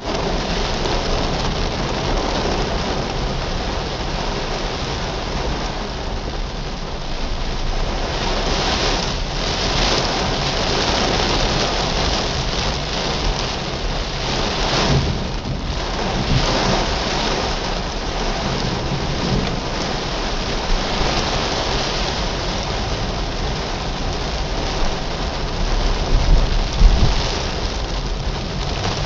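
Steady heavy rain on a car's roof and windscreen, heard from inside the car as it drives on a wet road. A few louder low thumps come near the end.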